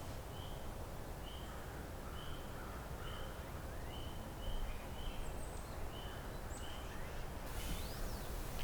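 Woodland ambience with a bird repeating a short high call roughly twice a second, and a few fainter chirps from other birds over a steady background hiss.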